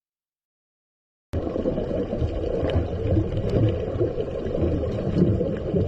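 Digital silence for just over a second, then a steady low rumbling noise with a few faint clicks.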